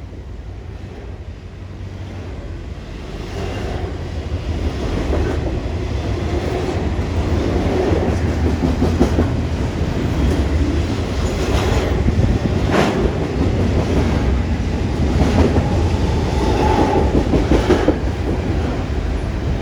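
A freight train passing close by: a heavy, continuous rumble that grows louder over the first several seconds, with the clickety-clack of wheels striking rail joints throughout.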